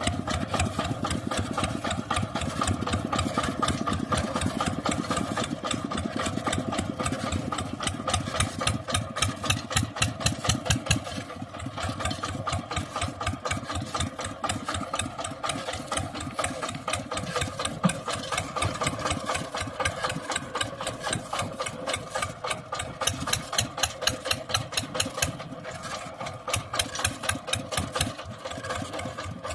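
Mini tractor engine running with a rapid, even chugging, louder for a few seconds at a time.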